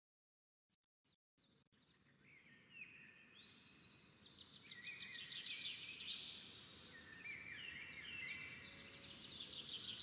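Birdsong: several birds chirping, with many short, overlapping, high-pitched sweeping calls. They begin faintly a few seconds in and grow busier from about four seconds on.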